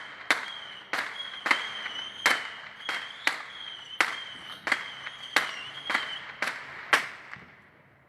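Rocket firecrackers going off in a rapid series of sharp bangs, about two a second, with a high wavering whistle between them; the bangs stop about seven seconds in.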